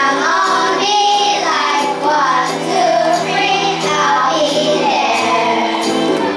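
Children singing a song over an instrumental backing track.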